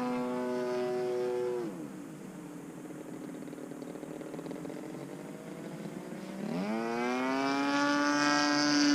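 DLE 35RA single-cylinder gasoline engine of a Slick 540 RC plane in flight, freshly rebuilt with a new top end. It runs steadily, is throttled back about two seconds in and runs low and quieter for a few seconds, then is opened up again near the end to a slightly higher, louder pitch.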